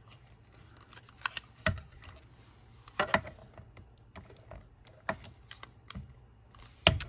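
Scattered sharp clicks and knocks of a desk stapler being handled and worked against paper while it gives trouble, the loudest knock near the end.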